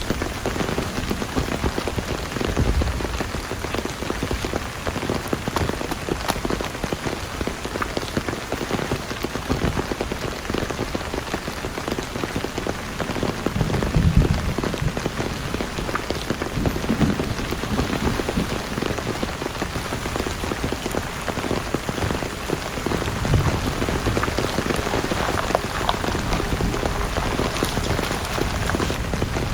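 Heavy rain falling steadily, dense drops pattering on a surface, with a few louder low thumps about 3, 14 and 23 seconds in.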